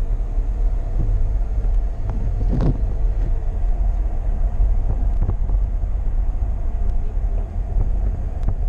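Steady low rumble of a moving car heard from inside the cabin, with wind noise from an open window.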